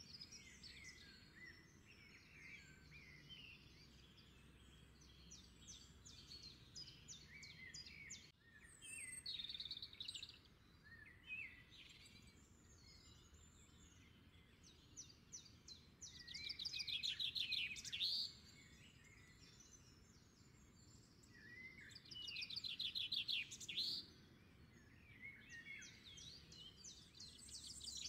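Birds chirping and calling. Two louder spells of rapid trills come in the second half.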